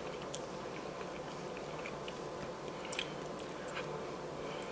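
A person quietly chewing a mouthful of soft macaroni and cheese, with a few small wet mouth clicks.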